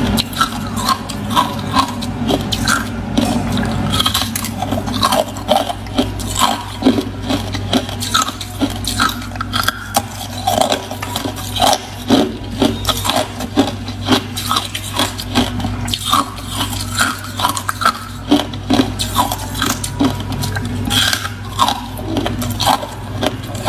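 Close-miked chewing of crunchy ice: a steady run of sharp crunches, about one or two a second, over a low steady hum.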